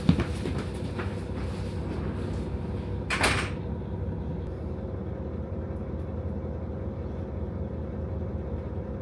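KiHa 40 diesel railcar idling while standing still, with a couple of knocks at the start. About three seconds in comes a short, sharp hiss of released compressed air.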